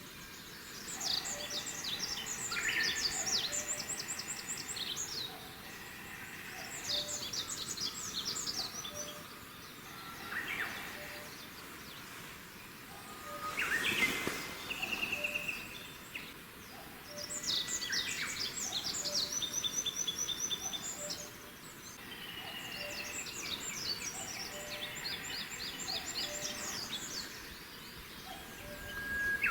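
A small songbird singing: phrases a few seconds long made of rapid, high trills and chirps, repeated with short pauses between them.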